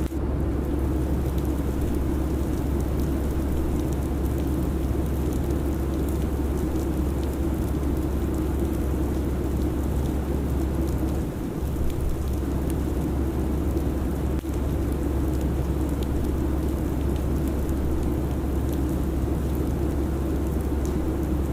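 Steady airliner cabin drone: a constant low engine hum and rushing airflow noise, with a brief dip about halfway through.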